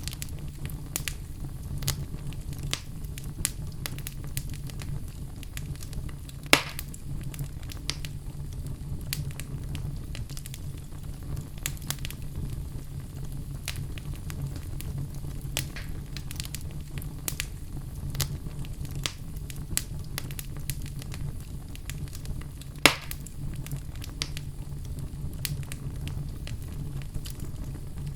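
Wood fire burning in a fireplace: a steady low rush under frequent small crackles, with two loud pops, one about six seconds in and one near the last quarter.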